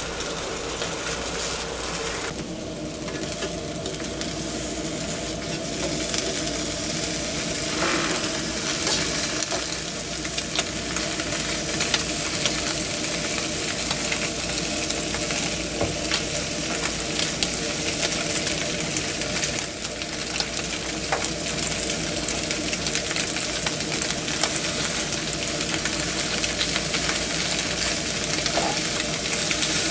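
French toast (egg-soaked baguette slices) sizzling in a frying pan, with metal tongs clicking and scraping against the pan as the slices are turned. A steady low hum runs underneath.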